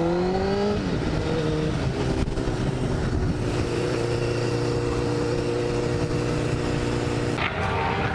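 Motorcycle engine revving up, rising in pitch for the first second, then holding a steady pitch; a sudden noisy change comes near the end.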